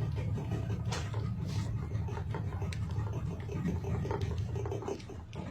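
A boat's engine running steadily at a low, even drone.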